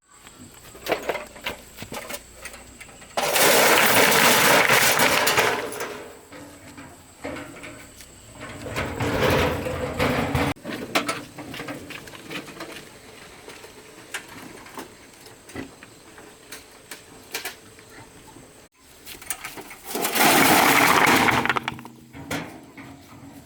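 Stones knocking and clattering against each other. There are two louder stretches of rushing clatter, each a couple of seconds long, one a few seconds in and one near the end, like a load of stones being tipped out.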